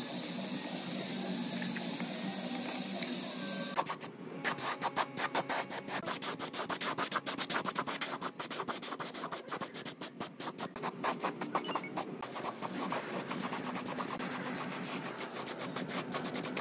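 A steady rushing noise like running water for the first few seconds, then rapid rubbing or scrubbing strokes, several a second, on a gearbox part, until the end.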